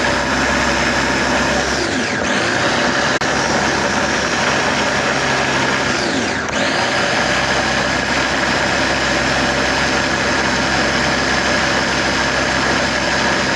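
Electric kitchen blender running steadily, grinding garlic, onion and ginger into a paste with a little oil added because the mix was very dry. The motor pitch dips briefly twice, about two seconds and six seconds in, then recovers.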